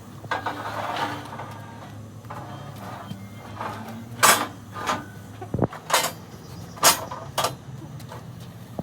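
Workshop clatter: a rustling clatter early, then half a dozen sharp knocks at irregular intervals, over a steady low hum.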